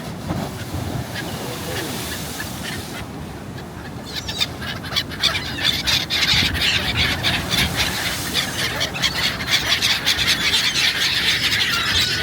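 A large flock of gulls calling, many short overlapping cries. The calls grow much louder and denser about four seconds in.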